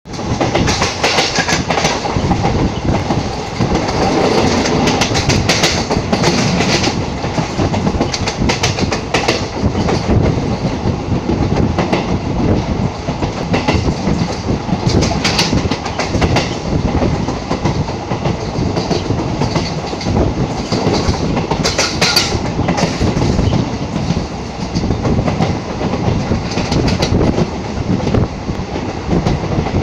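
Train running along the track, heard from inside the moving coach: a steady loud rumble with irregular clicks and clatter of the wheels on the rails.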